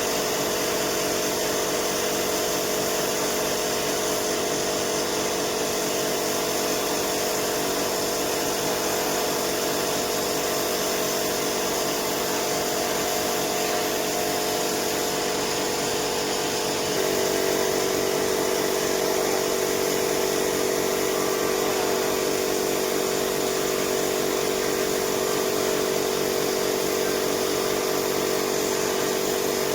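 A power tool's electric motor running steadily, with a steady hum. It gets slightly louder about seventeen seconds in.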